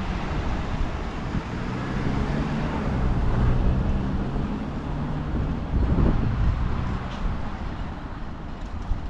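Road traffic: a motor vehicle's engine hum passes steadily from about two to five seconds in, over a constant low rumble of road noise.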